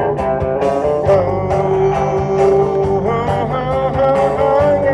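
Rock and roll band playing an instrumental passage: electric guitar lines over bass and a steady drum beat.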